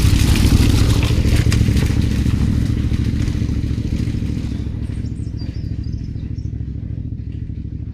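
Adventure motorcycle engine running, with a hissing, rattling noise over it that fades out about halfway through, while the engine gradually grows quieter.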